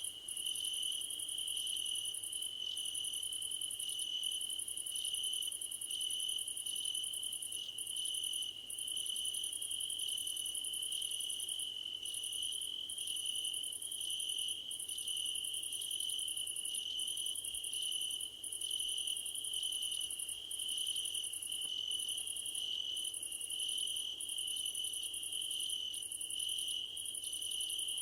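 Crickets singing in a grassy field: several overlapping insect trills, one a steady unbroken high trill, another pulsing in short chirps about once a second, with a still higher buzz that breaks off every second or two.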